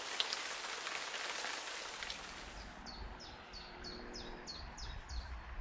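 A steady hiss that cuts off about halfway, then a small songbird singing a run of about nine short, high, falling notes, about three a second.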